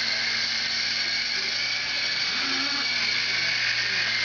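Steady high-pitched mechanical whine over a low, even hum, unchanging throughout.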